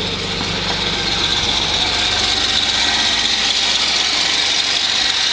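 Cold 4.3-litre Vortec V6 engine of a Chevy S10 idling steadily, with a steady high-pitched squeal over the engine, which the owner takes as a sign that the drive belt needs replacing.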